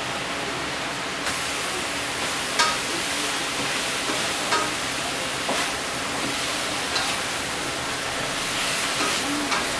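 Food frying in a wok with a steady sizzle, while a wooden spatula stirs it and knocks against the pan a few times.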